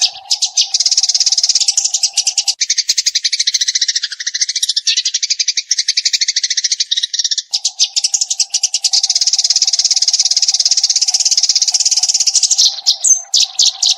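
Eurasian tree sparrows giving rapid, continuous chattering chirps, the dense 'full rapid-fire' song used for training songbirds. A steady low drone runs beneath the chirping at the start and again through the second half.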